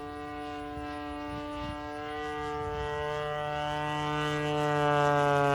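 20cc two-stroke gas engine of an RC airplane in flight, a steady high-pitched drone that grows louder as the plane comes closer.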